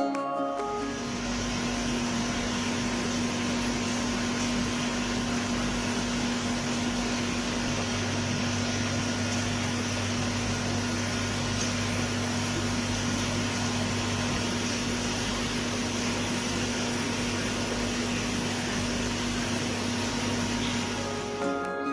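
Steady mechanical hum over an even hiss, like a small motor or pump running without change.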